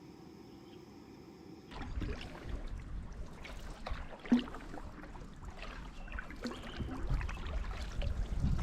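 Canoe on the water: paddle strokes with splashes, dripping and small knocks over a low rumble, starting abruptly about two seconds in after a faint hiss. One sharp knock stands out a little past the middle.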